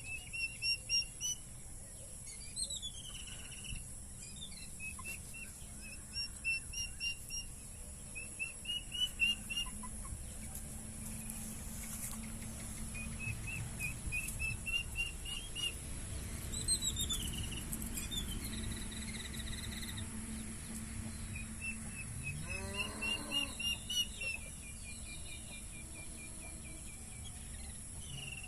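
Birds chirping in repeated quick runs of short high notes over a steady high insect drone. A lower, throatier call comes in about three quarters of the way through.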